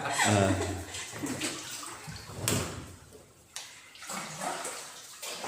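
Wooden paddle dipping and splashing in the still water of a cave passage, with a sharp knock about two and a half seconds in.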